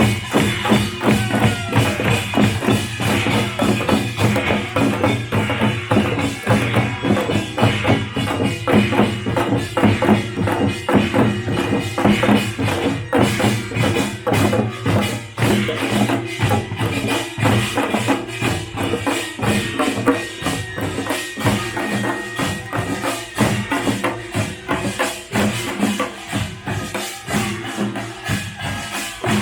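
Korean pungmul (nongak) percussion band playing: drums and metal gongs struck in a fast, dense, unbroken rhythm, with jangling metallic ringing over the beat.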